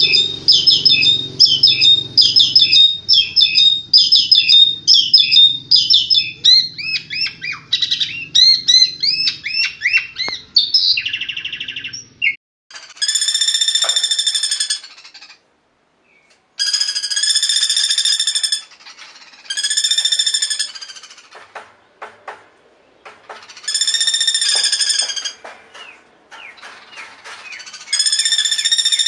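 Recorded birdsong. For about twelve seconds a bird gives rapid, repeated high chirping notes over a low background hum. Then a bird calls in five separate buzzy, rasping phrases of about two seconds each, with short pauses between them.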